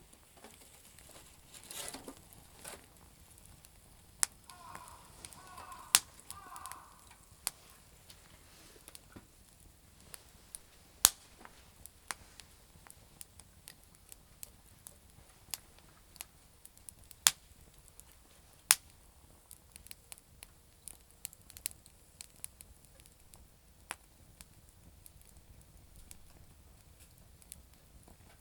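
Campfire of damp firewood crackling: sharp pops at irregular intervals, a few much louder than the rest, over a faint steady hiss.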